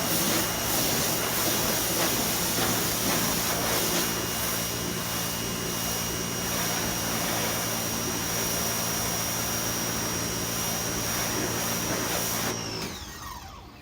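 DeWalt 2100 PSI electric pressure washer running, its spray hissing against the wooden deck boards over a steady motor hum and a high whine. About a second before the end the trigger is let off and the motor cuts out automatically, its whine falling away.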